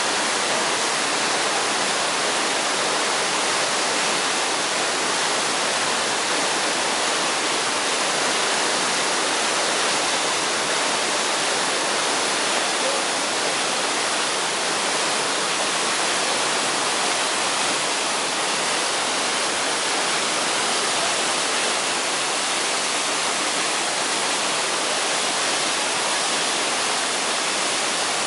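Waterfall: a steady rush of falling water that holds at an even level throughout.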